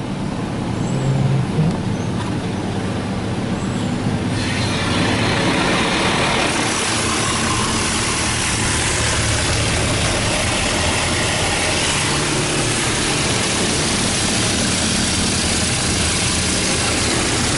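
Mark VII Aquajet GT-500 touchless car wash running its cycle, heard from inside the car: a low steady machine rumble, then about four seconds in a dense, steady hiss of high-pressure water spray striking the car starts abruptly and keeps on.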